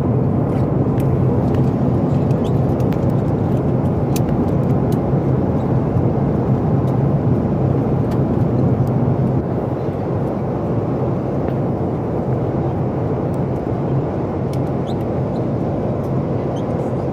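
Steady cabin noise inside a Boeing 737 MAX 8 airliner: a low rumble from its CFM LEAP-1B engines and airflow, easing slightly about nine and a half seconds in.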